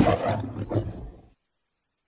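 End of a lion's roar: the call fades through two shorter, weaker grunts and cuts off about a second and a quarter in.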